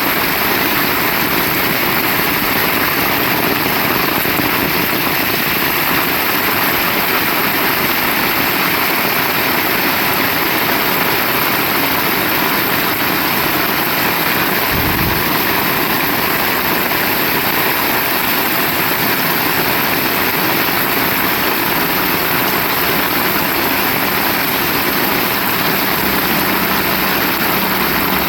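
Heavy rain falling steadily, a dense even hiss, with one brief low thud about halfway through.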